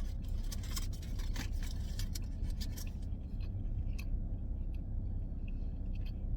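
A taco's wrapper crinkling and rustling as it is handled, dense for about the first three seconds and then only a few scattered crackles, over a steady low hum.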